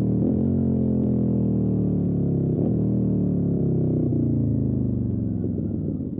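Motorcycle engine running with its revs falling steadily as the rider rolls off the throttle, the engine slowing under engine braking.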